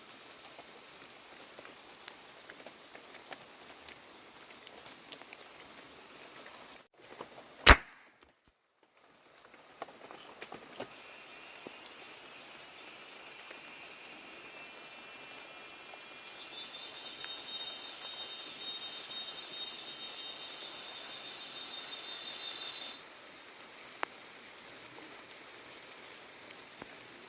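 Outdoor rural background of chirping insects, broken about eight seconds in by a single sharp bang. Later a louder pulsing insect buzz builds up and stops abruptly.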